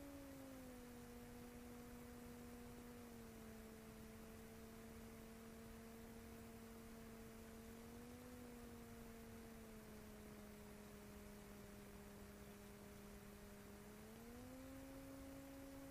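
Near silence on the cockpit intercom recording: only a faint hum that steps down in pitch a few times and rises again near the end, following the small aircraft's engine speed.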